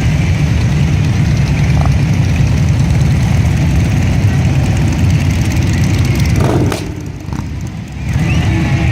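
Many motorcycle engines running together in a dense, steady low rumble. The rumble drops for about a second near the end, then comes back.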